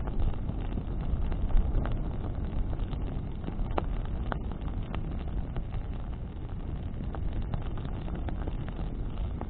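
Bonfire burning in the wind: a steady low rumble of flames and wind on the microphone, with scattered sharp crackles and pops from the burning wood.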